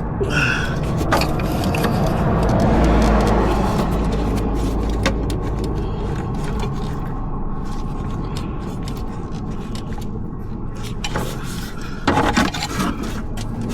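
Metal tools and engine parts scraping and clicking while a socket is worked on the cooling system, over a steady low rumble that swells a couple of seconds in; a louder flurry of clicks comes near the end.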